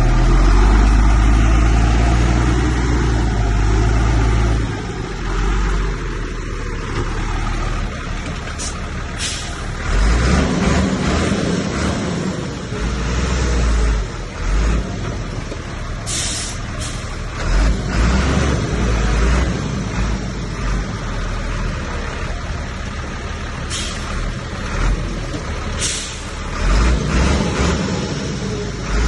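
Heavy diesel earth-moving machinery running, a deep engine rumble that swells and eases, with several short sharp hisses spread through it.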